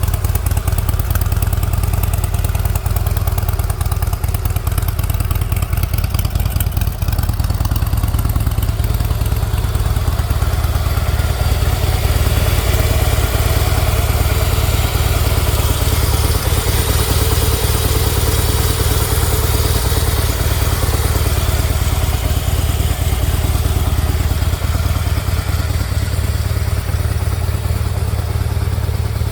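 2009 Harley-Davidson CVO Softail Springer's Twin Cam 110 V-twin idling steadily through its stock exhaust with the original baffles.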